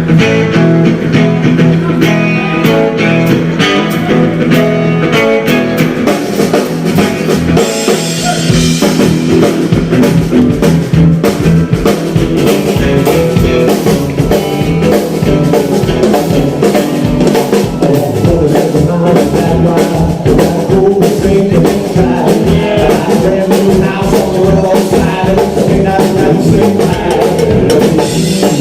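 A live band playing a blues-rock tune, with electric guitar and a drum kit keeping a steady beat.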